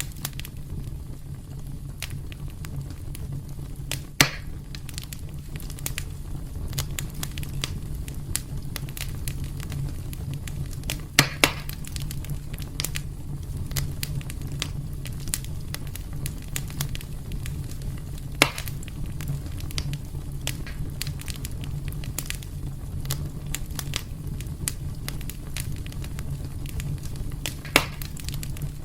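Wood fire burning in a fireplace: a steady low rumble with constant small crackles, and a few louder sharp pops, about four seconds in, around eleven seconds, near eighteen seconds and near the end.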